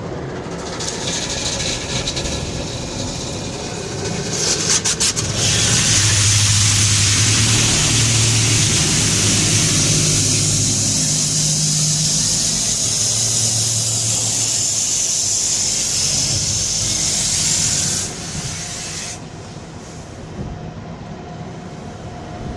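Car wash machinery running: a loud, steady rushing hiss starts about five seconds in and stops about eighteen seconds in, over a low motor hum. A quieter rumble comes before and after it.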